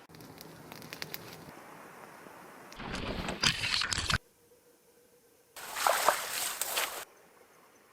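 Water splashing and sloshing in two loud bursts, each starting and stopping abruptly, with faint rustling and small clicks at first and a near-silent gap between the bursts.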